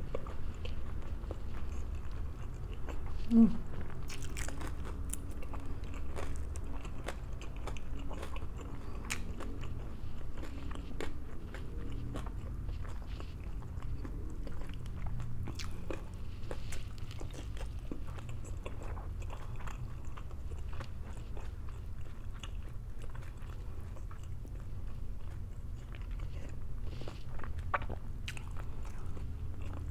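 A person eating close to the microphone: irregular crunching and chewing of fried breakfast food, with small sharp clicks throughout, over a steady low hum. A short, dropping low tone is the loudest sound, about three seconds in.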